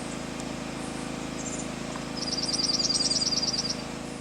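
A junco singing: one rapid trill of even notes on a single high pitch, lasting about a second and a half from about two seconds in, with a few faint short chirps before it. Steady low background noise runs underneath.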